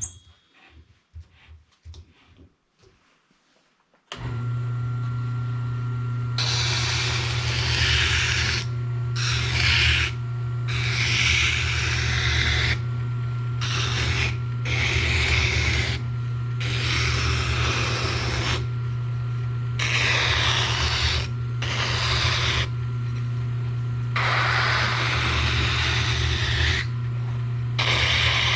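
An electric sanding machine fitted with a coarse abrasive starts abruptly about four seconds in and runs with a steady hum. A wooden spoon blank is pressed against it again and again, giving a loud rasping hiss in stretches of one to three seconds with short breaks as the wood is shaped.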